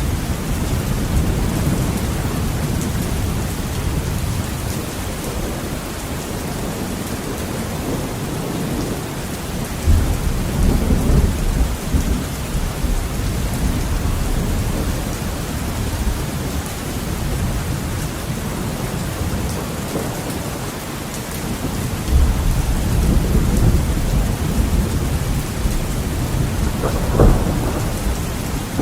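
Heavy rain falling steadily, with thunder rumbling low about ten seconds in and again about twenty-two seconds in, and a sharp thunder crack near the end.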